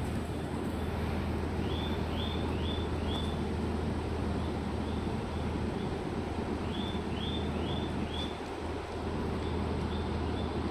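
Railway platform ambience: a steady low hum with a background of noise, and a small bird chirping in quick runs of three or four short notes, twice.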